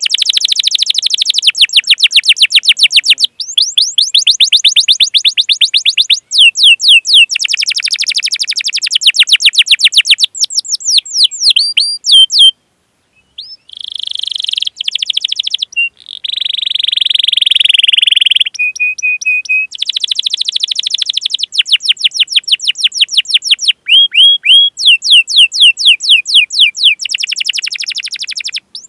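Domestic canary singing: long phrases of rapid, repeated chirps that each sweep down in pitch, with a denser rolling trill partway through. The song stops briefly a little before the middle.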